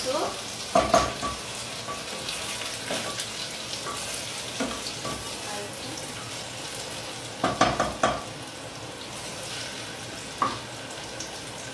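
Food sizzling in hot oil in an open pressure cooker pot on a gas burner, stirred with a spoon. A few sharp metallic scrapes and knocks against the pot stand out: about a second in, a cluster near the two-thirds mark, and one more near the end.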